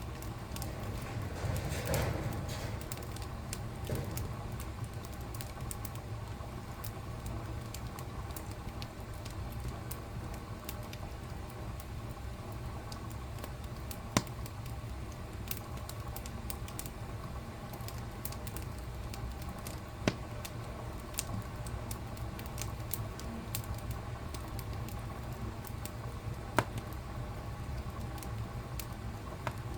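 Wood fire crackling in a fireplace: many small scattered pops and ticks over a low steady rumble of the flames. A few sharper, louder pops stand out, spread several seconds apart.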